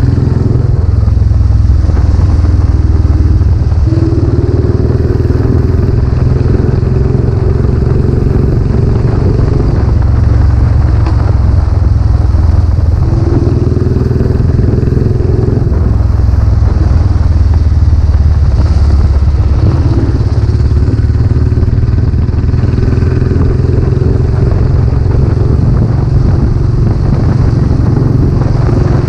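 Royal Enfield Classic 500 single-cylinder engine running through its newly fitted aftermarket silencer while the bike is ridden, a loud, steady low exhaust note. A somewhat higher tone rises in the note and falls away again three times.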